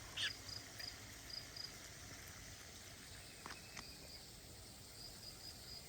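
Faint insect chirping outdoors: short, high pulses repeating a few times a second in runs, with a couple of brief falling bird chirps, one just after the start and one about three and a half seconds in.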